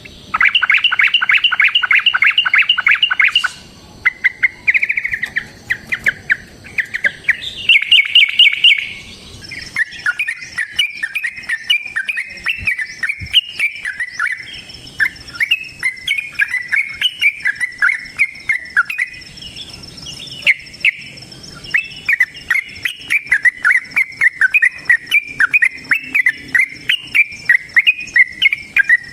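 Yellow-vented bulbuls (trucukan) singing in fast chattering runs. A quick rapid-fire burst opens, short phrases follow, then a long, near-continuous chatter of notes.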